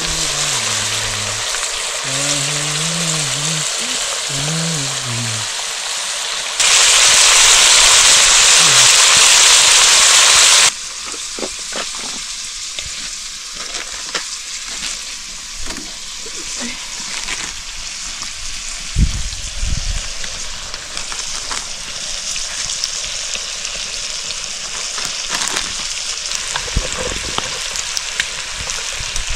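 Pork curry frying in a pan, sizzling, with small scrapes and knocks of stirring. A few seconds in, a much louder steady hiss starts abruptly, lasts about four seconds and cuts off just as suddenly.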